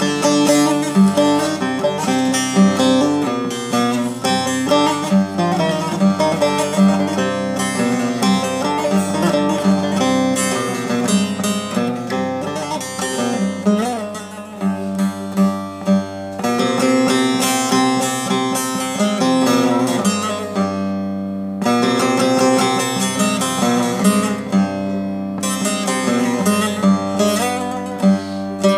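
Bağlama (Turkish long-necked lute) improvisation: quick runs of plucked notes over a steady low note that keeps ringing underneath.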